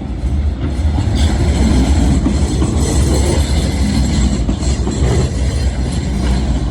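Tram running past on the rails: a loud, steady rumble of wheels on track that builds about a second in, with thin high squealing tones over it.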